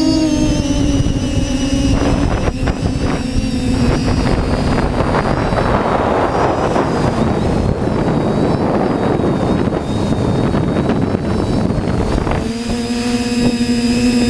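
Quadcopter's electric motors and propellers whining steadily in flight. For most of the middle, gusty wind rushes over the microphone and drowns much of the whine, which comes back clearly near the end.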